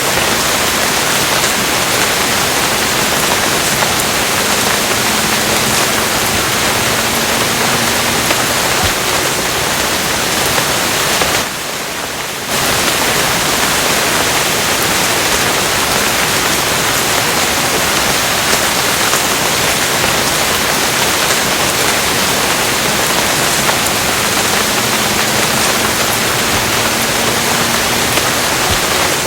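Steady heavy rain, an even hiss. About twelve seconds in, it dips quieter for about a second.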